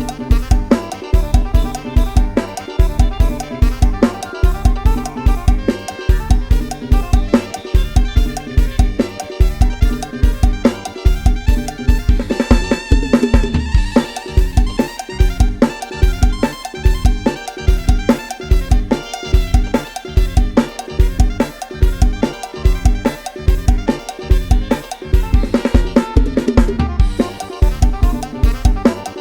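Instrumental Thai lai hae procession music played back from a computer project: a programmed Addictive Drums 2 kit with kick, snare and rimshots over a sampled electric bass, keeping a fast, even dance beat with about two kicks a second. Twice, near the middle and again near the end, a denser run of higher notes comes in briefly.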